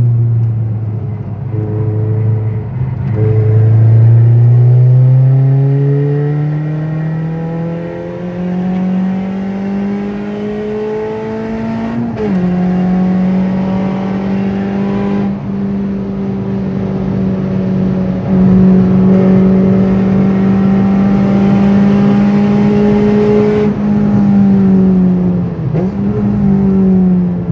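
An old car's engine accelerating hard. Its pitch climbs steadily for about ten seconds, drops suddenly at a gear change, then holds at high steady revs, with a brief lift off the throttle near the end.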